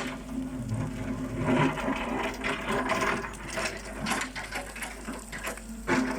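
Excavator engine running steadily, with irregular clanks and knocks over it.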